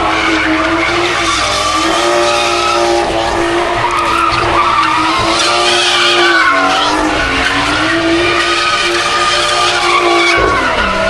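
Car engine held at high revs while its spinning tyres screech through a burnout. The revs drop and climb back twice, about six and a half and ten and a half seconds in.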